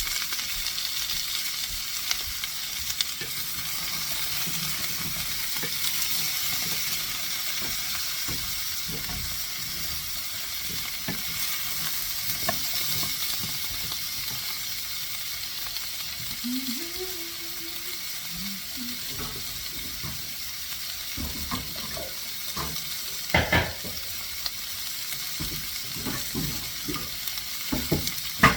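Zucchini frying in a hot sauté pan on medium-high heat, a steady sizzle. Scattered light clicks and knocks of a utensil stirring in the pan, with a few louder knocks about 23 seconds in and at the end.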